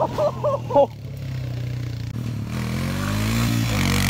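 A small off-road vehicle engine running, its pitch rising as it revs up from about halfway through. A brief loud burst of a voice at the very start.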